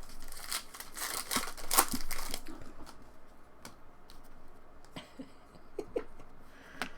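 A trading card pack's foil wrapper crinkling and tearing open, most dense in the first two and a half seconds, then a scattering of light clicks and taps as the cards are handled.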